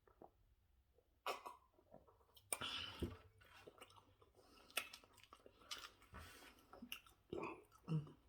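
A person chewing and eating food close to the microphone: irregular mouth noises with short pauses between them.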